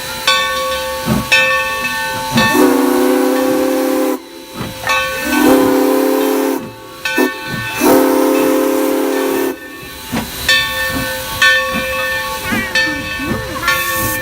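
Steam locomotive whistle blowing three long blasts, each a steady chord, over a continuous hiss of steam.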